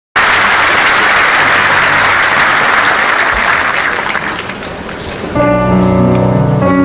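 Audience applause that dies down, then a piano starts playing held chords about five seconds in.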